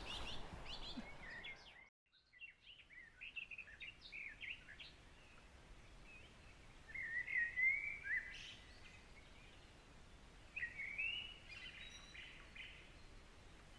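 Songbirds singing outdoors: scattered short chirps and warbled phrases over a faint background hiss, with a brief silent gap about two seconds in.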